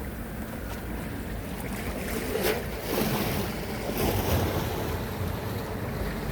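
Atlantic surf washing on a pebble and black-sand shore, with wind on the microphone; the waves swell louder about two and a half and four seconds in.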